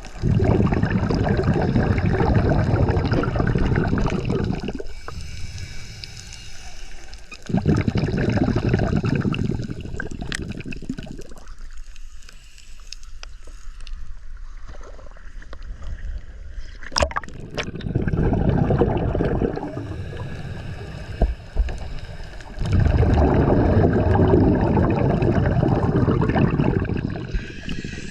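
Water gurgling and bubbling close to the microphone, coming in loud spells of a few seconds with quieter gaps and a few small clicks between them.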